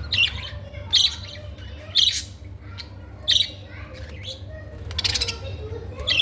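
Pet budgerigars chirping: sharp, loud chirps about once a second, then a rapid chattering run near the end.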